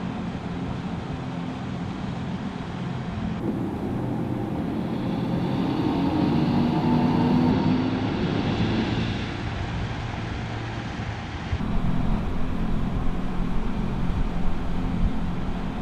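Mercedes-AMG EQS 53 electric car driving, heard over three cuts. In the middle one it swells to its loudest about seven seconds in and then fades away.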